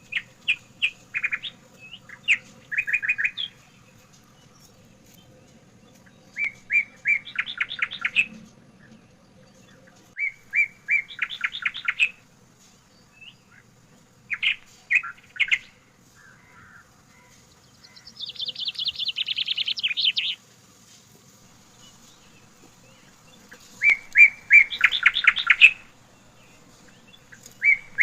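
A songbird singing the same short phrase over and over, roughly every four seconds: a few separate chirps that run into a fast trill. About two-thirds of the way through, one phrase is a longer, higher trill.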